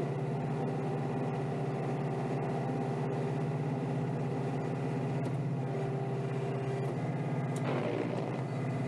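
Kioti DK5320SE tractor's diesel engine running steadily under load, heard from inside the closed cab, with a brief change in tone near the end.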